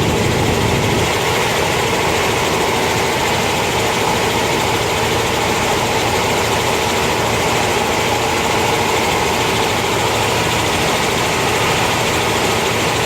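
Helicopter engine and rotor running steadily: a constant drone with a steady tone running through it. A deeper low rumble eases off about a second in.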